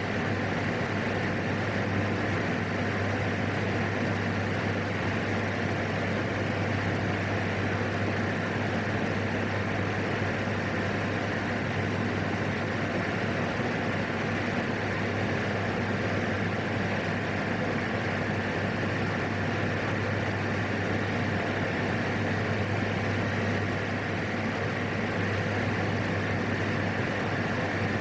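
Steady drone of a PAC 750XL's single turboprop engine and propeller, running at a constant power setting with a low hum underneath.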